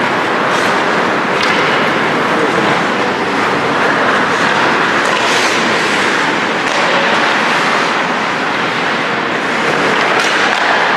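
Ice hockey rink noise during play: a steady wash of skates scraping and carving on the ice, with a few scattered clacks of sticks and puck.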